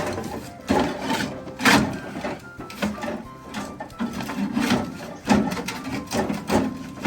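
Repeated knocks, scrapes and rattles as a melted laptop stuck inside a microwave oven is worked loose and pulled free.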